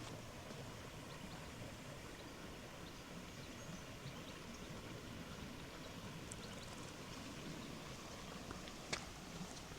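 Steady rush of flowing river water, with faint short high bird chirps here and there and a single sharp click about nine seconds in.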